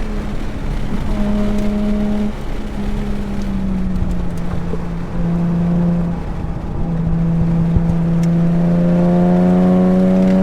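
Nissan 370Z Nismo's V6 engine running hard on track, heard from inside the car. Its note holds and dips a few times, then rises steadily near the end as the car accelerates, over tyre and road noise.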